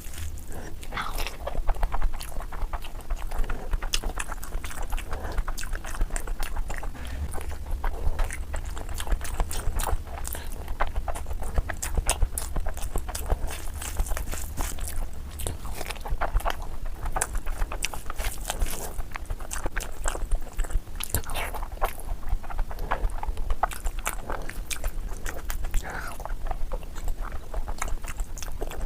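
Close-miked eating: wet chewing, smacking and biting on mutton fat curry and rice, a steady run of irregular clicks and squelches over a low hum.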